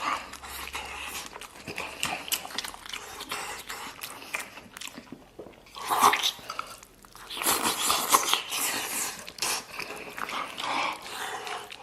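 Close-up eating sounds of a man biting into and chewing a large piece of cartilage-bone: wet smacking, irregular crunches and mouth noises, with brief pauses.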